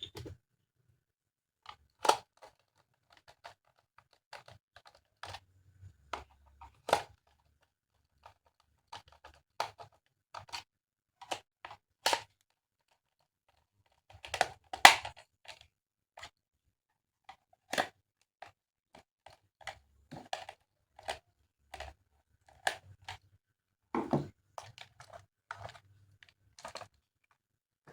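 Irregular clicks, taps and rustles of small plastic toy parts being handled and fitted together, with a louder cluster of clicks about halfway through.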